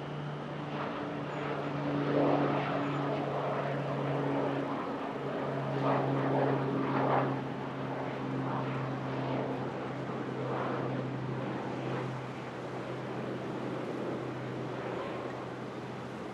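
Aircraft engines running at the airfield: a steady low hum under a rushing engine noise that swells twice, about two seconds in and again around six to seven seconds in, then eases off.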